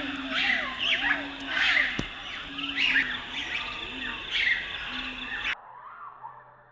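Several birds calling and chirping together, with quick rising-and-falling calls repeated over and over. About five and a half seconds in the chorus cuts off abruptly and gives way to much fainter sound.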